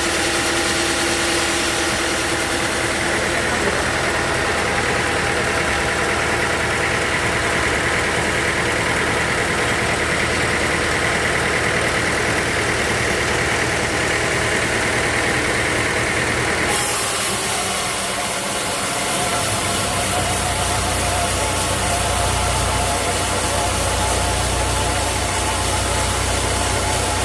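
Sawmill machinery running steadily with a mechanical drone. About two-thirds of the way through the sound changes abruptly to a deeper, lower hum.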